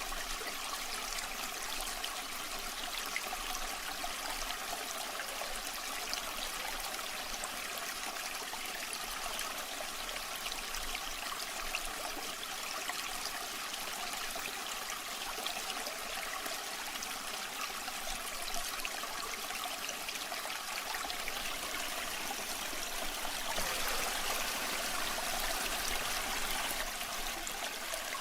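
Waterfall water rushing and splashing steadily, a little louder near the end.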